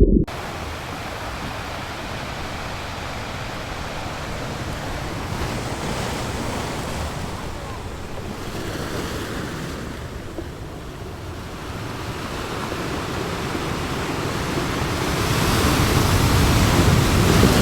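Surf washing in: a rushing noise that swells and eases over several seconds and grows loudest near the end.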